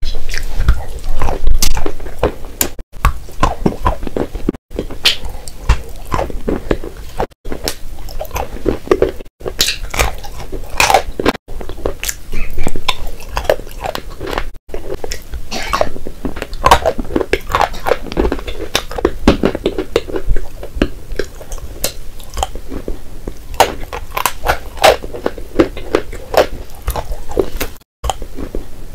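Close-miked biting and chewing of chalk bars coated in clay paste: dense, irregular crunching, broken by several brief sudden gaps.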